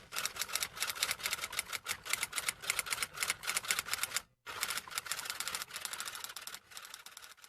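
Typing sound effect: a rapid run of key clicks, with a short break a little past four seconds in, thinning out near the end.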